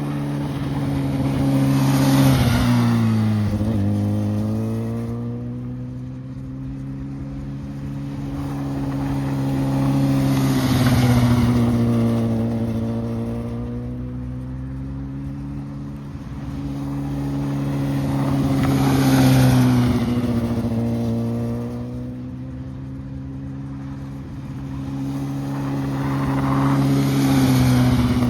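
Honda CBR600RR inline-four sport-bike engine running at a steady pitch as the bike circles a roundabout. It passes close four times, about every eight seconds, swelling each time and dropping in pitch as it goes by.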